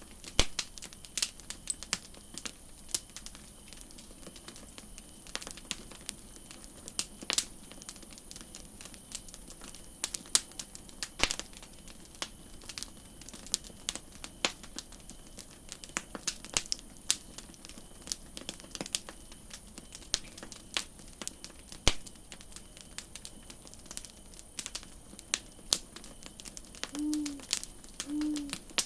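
Campfire burning, wood crackling with irregular sharp pops and snaps over a faint steady hiss. Near the end, two short low notes are heard.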